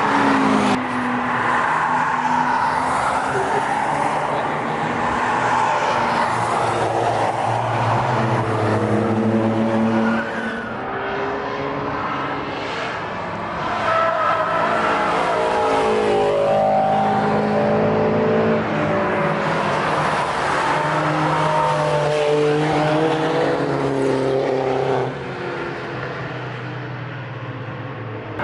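Performance car and motorbike engines revving and accelerating past one after another, their pitch rising and falling with each throttle blip, over a background of voices.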